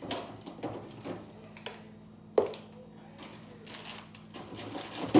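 Food packages and containers being handled in a refrigerator: scattered light clicks and knocks, with one sharp knock about two and a half seconds in.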